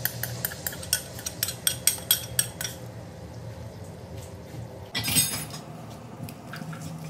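Salmon fillet frying in oil and a soy-sauce glaze in a nonstick pan, sizzling with dense crackles and pops that thin out after about three seconds. A brief louder rush of noise comes about five seconds in.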